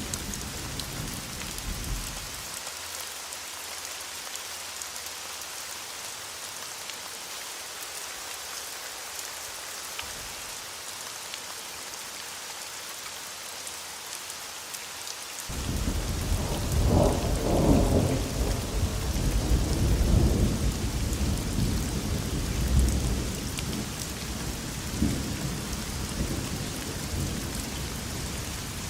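Thunderstorm: steady rain hissing, with thunder. A roll of thunder dies away in the first couple of seconds; about halfway through a long rumble of thunder sets in suddenly, loudest a couple of seconds later, and keeps rolling with further swells.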